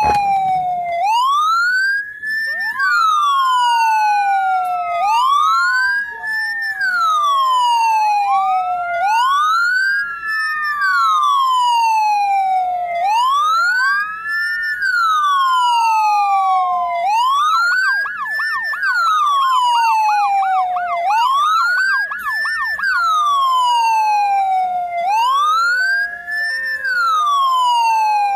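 Ambulance siren wailing in cycles of about four seconds, each a quick rise in pitch and a slower fall, with a second siren overlapping now and then. About two-thirds of the way through it switches briefly to a fast yelp, and near the end a two-tone hi-lo pattern sounds beneath the wail.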